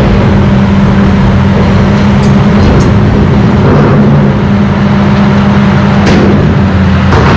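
Heavy diesel engine running steadily with a low hum, with a couple of sharp knocks near the end.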